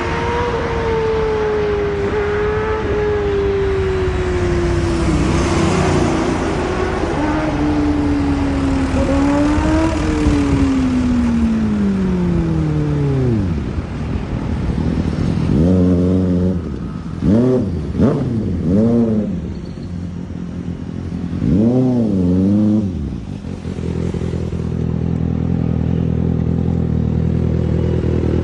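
Kawasaki ZX-6R inline-four engine revving through its exhaust: held at high revs with the pitch slowly sinking for about thirteen seconds, then dropping back. Several quick rev blips follow, rising and falling sharply, before it settles into a steady idle near the end.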